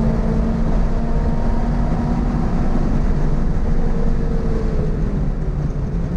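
Toyota GR86's 2.4-litre flat-four engine running under load on track at fairly steady revs, over a low rumble of road and wind noise. Its pitch climbs slightly and then drops about five seconds in.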